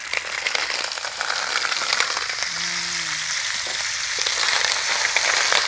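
Snails frying in hot oil in a metal wok, a steady sizzle full of fine crackles and pops.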